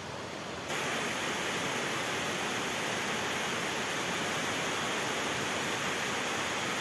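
Waterfall rushing steadily: a dense, even hiss of falling water that jumps louder a little under a second in, then holds.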